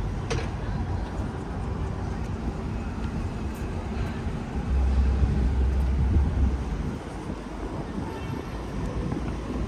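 City street ambience: steady traffic noise with a low rumble, which grows louder for about two seconds midway as a heavy vehicle passes.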